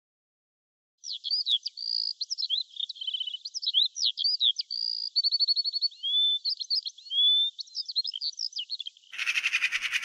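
A songbird singing a fast, varied song of whistled notes, glides and rapid trills, starting about a second in. About nine seconds in, a harsher, rapidly pulsing call takes over.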